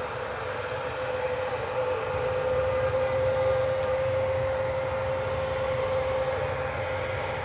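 Boeing 717's Rolls-Royce BR715 turbofan engines running at taxi power: a steady jet whine over a broad rumble, growing a little louder about two seconds in.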